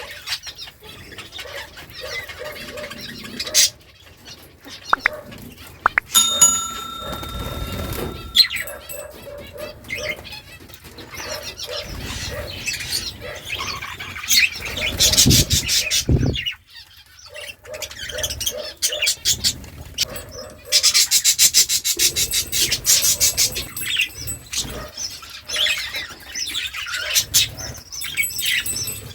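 Budgerigars chirping and chattering continuously in quick warbling trills. A steady held note lasts about two seconds, and an especially dense, fast burst of chatter comes about three quarters of the way in.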